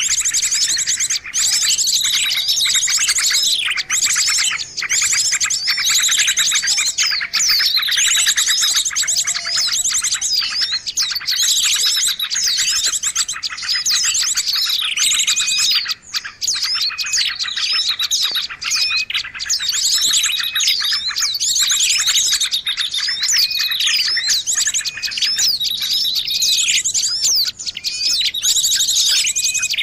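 A dense, unbroken chorus of many small birds chirping and trilling over one another, the kind of mixed-species recording played to lure birds in.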